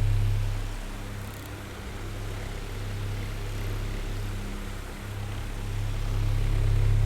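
Oscillating electric fan running: a steady low motor hum with the whir of moving air. It fades down about a second in and swells back near the end as the fan head swings away and back.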